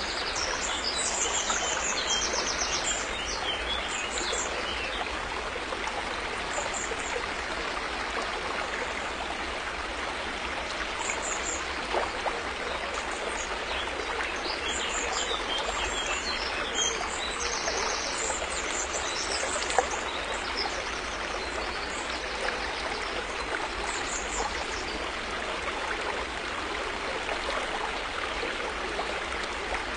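A river's water flowing with a steady, even rush. Birds chirp high above it in scattered bursts, about a second in and again through the middle.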